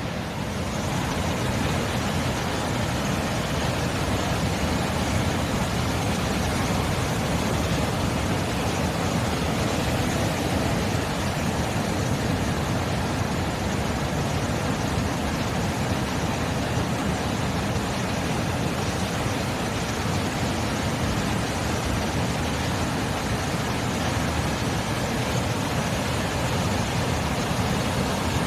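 Ocean surf: a steady, unbroken rushing noise, heaviest in the low end, with no distinct wave swells standing out.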